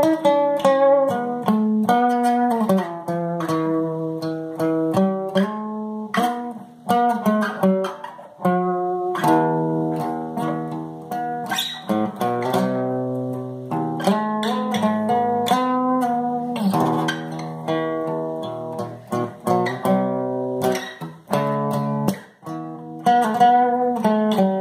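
Guitar playing a tune in a run of plucked single notes and chords, each note starting sharply and then ringing out.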